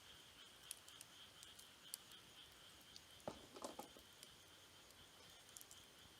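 Faint wood campfire crackling, with scattered sharp pops and a small cluster of louder crackles about three and a half seconds in, over a steady, evenly pulsing insect trill.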